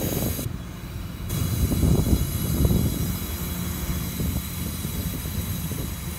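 Passenger train rolling past on the rails: a steady low rumble and clatter of steel wheels, with faint thin high-pitched tones over it. It swells to its loudest about two to three seconds in.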